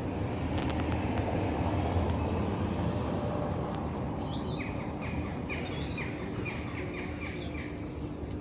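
A small bird chirping a run of about eight short, evenly spaced notes, a little over two a second, starting about halfway through, over a steady low outdoor rumble with a faint hum.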